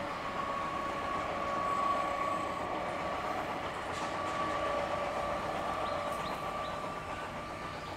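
Electric multiple unit (EMU) suburban train approaching along the track: a steady running noise with a continuous high whine.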